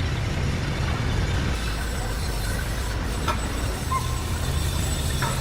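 Steady low machinery rumble, with a few short clicks and brief high squeaks about three to four seconds in.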